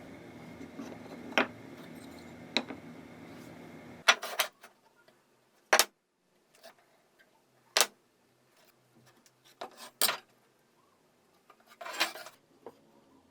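Sharp, isolated clicks and knocks of wooden pieces and small tools being handled, one every second or two. A steady background hum stops abruptly about four seconds in.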